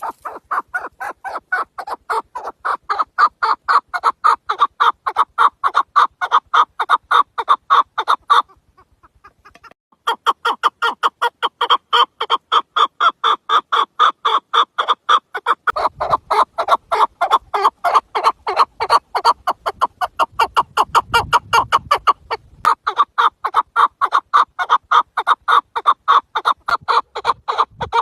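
Chukar partridge calling: a long, loud run of rapid, repeated clucking notes, about five a second, with a break of over a second about a third of the way through.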